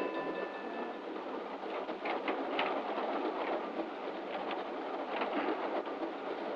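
Train carriage in motion: a steady rushing noise with faint scattered rattles, as on an early sound-film track. A steady whistle-like tone fades out in the first second.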